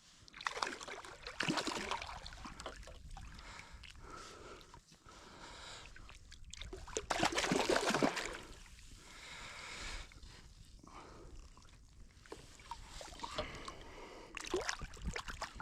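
Water sloshing and splashing around a fishing kayak in irregular surges, loudest about a second and a half in and again around seven to eight seconds in.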